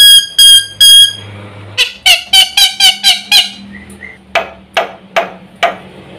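Black-winged starling calling loudly: a string of clear whistled notes about three a second, then a quick run of harsher chattering notes, then four sharp separate calls.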